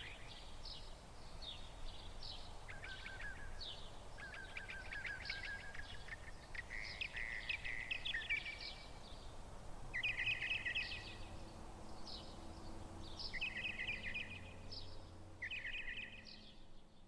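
Songbirds chirping and trilling in repeated short phrases, over a faint low steady hum.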